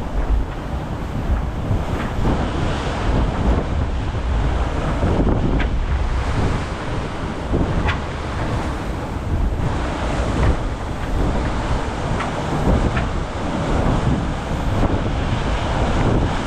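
Wind buffeting the microphone over rushing water and waves on a racing yacht under sail at sea: a steady, heavy rumble and hiss. A few short high-pitched squeaks come through it.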